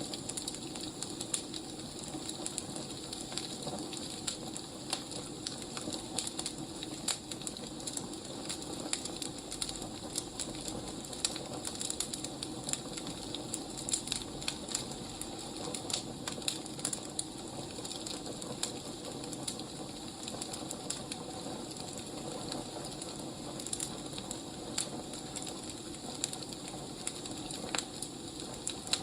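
Firewood burning: a steady hiss with frequent irregular crackles and sharp pops.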